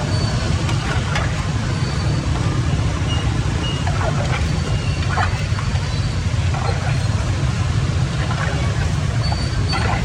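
Water rushing steadily with a deep rumble, with a few brief splashes or knocks over it.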